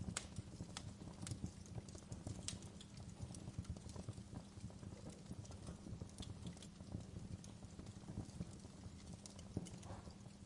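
Wood fire burning with irregular crackles and sharp pops over a low, steady rumble of the flames.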